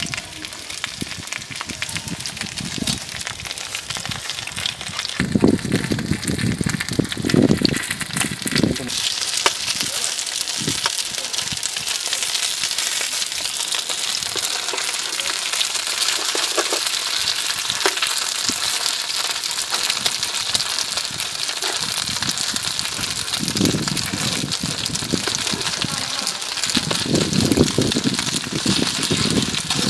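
Chive rice cakes sizzling in oil on a wide flat griddle: a steady frying hiss that starts suddenly about a third of the way in.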